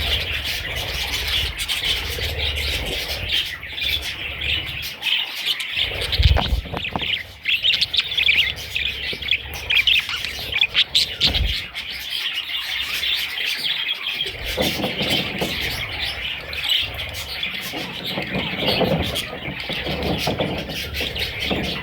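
Budgerigars chirping and chattering continuously, many overlapping calls, with a couple of brief low thumps about six and eleven seconds in.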